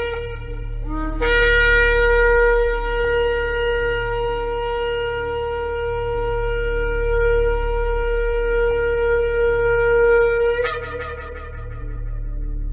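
Shofar sounding one long, steady blast of about nine seconds, starting about a second in and ending with a brief break in the tone. A steady low hum runs underneath.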